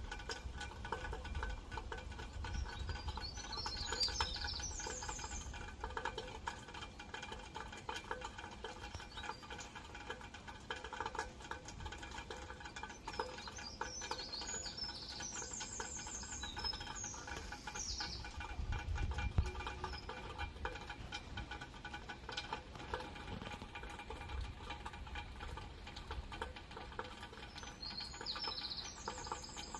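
Steady rain pattering, with birds chirping in short bursts three times: a few seconds in, around the middle, and near the end.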